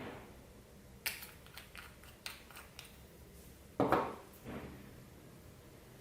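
Clear slime mixed with plastic beads being worked by hand: a run of sharp clicks and pops, then a louder squelching burst about four seconds in.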